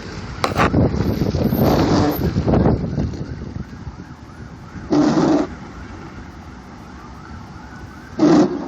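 Emergency vehicle sirens in the distance, their pitch rising and falling repeatedly, under steady road and wind noise. Louder noise fills the first few seconds, and there are two short loud bursts about five and eight seconds in.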